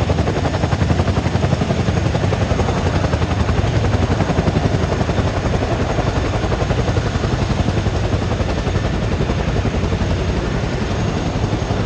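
Boeing CH-47 Chinook twin-rotor helicopter running loud and steady, its tandem rotors giving a rapid even blade chop over the turbine noise.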